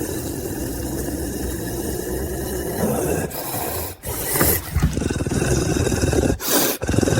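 Caracal making a continuous low, rough, rasping rumble from deep in the throat, the sound of a wild cat growling. It breaks off briefly twice past the middle, with short breathy bursts.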